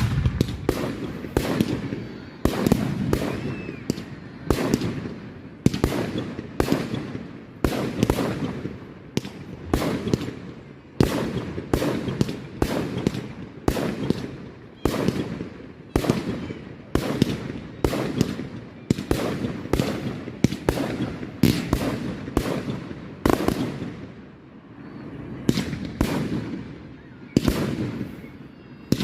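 Aerial fireworks going off in quick succession, a sharp bang every second or so, with rumbling and crackle between the bursts.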